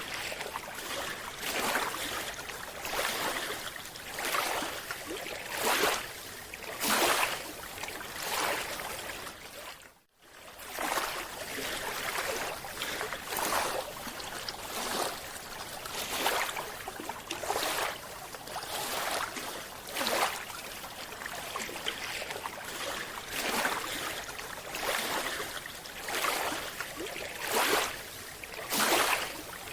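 Underwater bubbling in repeated surges about every second or two, the sound of a scuba diver's exhaled air bubbles. It drops out for a moment about ten seconds in.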